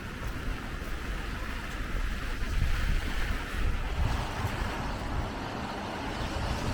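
Heavy rain falling in a steady hiss, over uneven low rumbles of wind buffeting the microphone; the hiss grows fuller about four seconds in.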